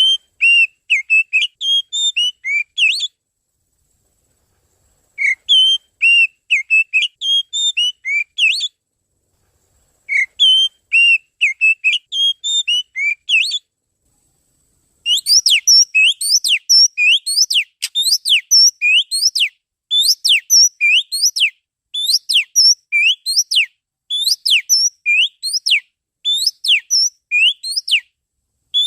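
Oriental magpie-robin (kacer) song played as a lure call: three short phrases of varied whistled notes with silent gaps between them, then from about halfway through a fast, continuous run of sharp repeated whistled notes.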